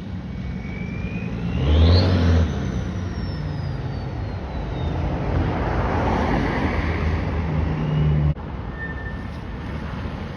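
Modified car's engine revving as it drives by, loudest about two seconds in, with a high whine that rises and then slowly falls away. The engine sound drops off suddenly a couple of seconds before the end.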